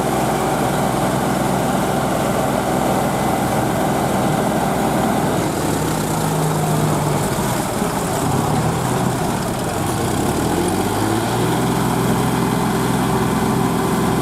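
John Deere 5045D tractor's diesel engine running, its speed changing and rising about eleven seconds in.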